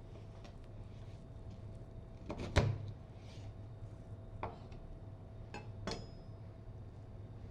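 A kitchen knife knocking and clicking against a cutting board a few times while a raw bird's leg is cut from the thigh through the joint, the loudest knock about two and a half seconds in, over a low steady hum.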